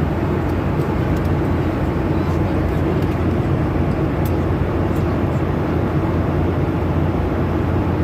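Steady cabin noise inside a passenger airliner: the engines and rushing airflow make an even, low drone, with a few faint ticks.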